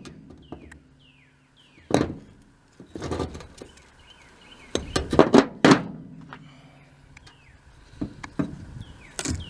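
Heavy cast-metal pump parts clunking and knocking as they are handled and set down, with a few single thuds and a quick cluster of knocks about five seconds in; some blows leave a short low metallic ring.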